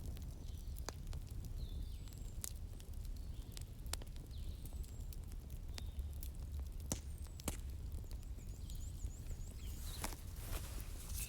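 Wood fire crackling: sharp pops every second or two over a low steady rumble, with a quick run of pops near the end. Birds chirp faintly and high, with a short trill partway through.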